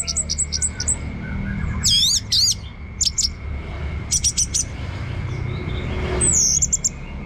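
Orange-headed thrush singing in short bursts: quick runs of high, sharp chirps and a few swooping whistled notes, with pauses between phrases. A faint steady high tone and a low rumble lie underneath.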